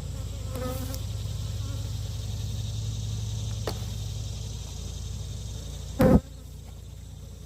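Honeybees buzzing steadily around an open beehive, with a small click about halfway and one loud knock about six seconds in.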